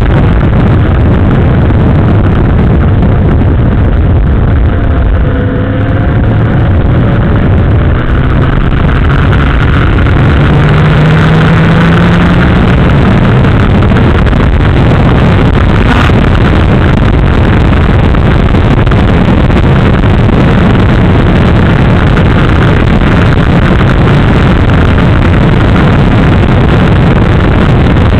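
Motorcycle engine running under way, picked up by a camera mounted on the frame right next to the engine block, so it sounds loud and rough, with wind and road noise. The engine note dips about five seconds in and climbs again from about ten seconds as the bike speeds up.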